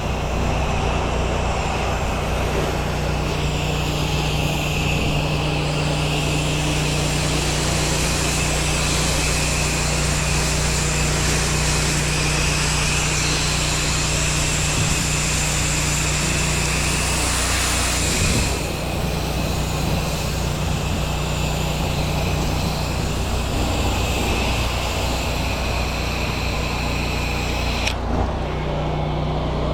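Pressure washer's engine running steadily under the hiss of the high-pressure water spray. Near the end the spray's hiss cuts off suddenly while the engine keeps running.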